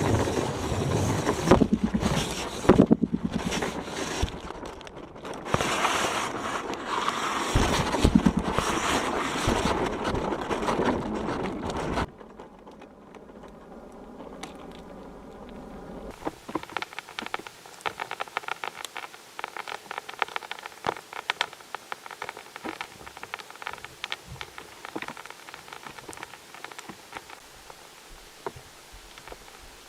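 Loud rustling and knocking handling noise. About twelve seconds in it cuts off abruptly to a much quieter recording from a listening sensor lowered into a drilled borehole. From about four seconds after that, a steady hiss runs under many scattered, irregular clicks and crackles.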